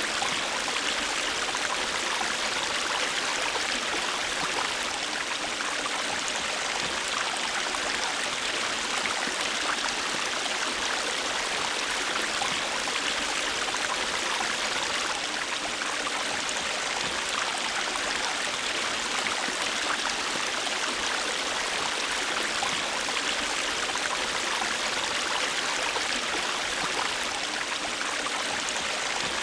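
A river or stream flowing steadily over rocks: a continuous, even rush of water.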